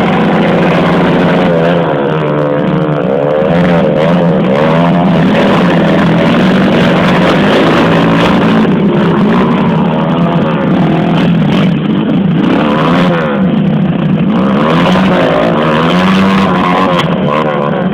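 Motocross bike engines revving, their pitch rising and falling over and over, with more than one engine running at once.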